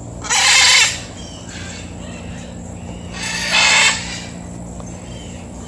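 A large parrot screeching twice, two harsh, loud squawks about three seconds apart.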